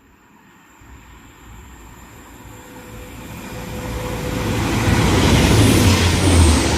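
TransPennine Express Class 185 diesel multiple unit approaching and passing through the station slowly, its rumble building steadily and loudest near the end.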